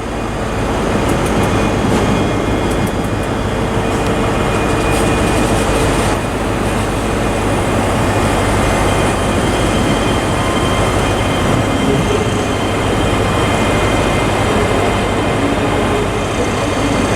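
Two coupled ScotRail Class 385 electric multiple units pulling out on departure, a steady rumble of traction motors and wheels on rail.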